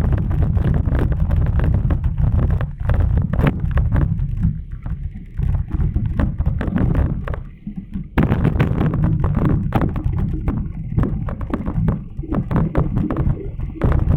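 Wind buffeting the microphone of a camera on a moving bicycle: a heavy rumble with many short knocks and rattles, easing briefly about eight seconds in.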